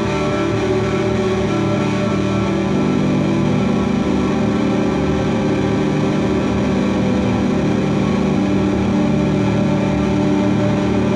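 Live rock band playing an instrumental passage: a steady, dense wall of sustained, effects-laden electric guitar tones, without vocals.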